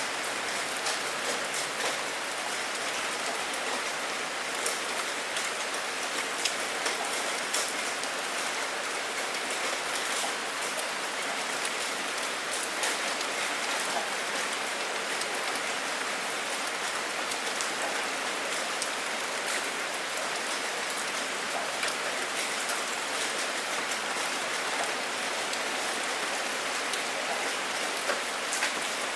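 Steady heavy rain falling: an even hiss with many scattered sharp drop impacts.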